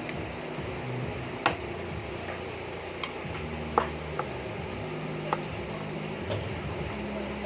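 Eating and food-handling noises: a handful of short, sharp clicks and taps at irregular intervals over a steady low room hum.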